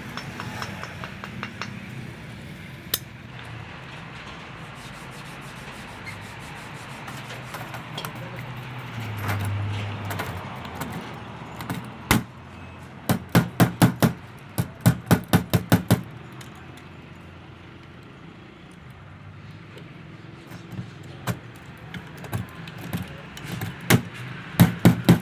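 Bursts of rapid knocking, about five sharp strikes a second, in two runs, one midway and one near the end, over low background noise.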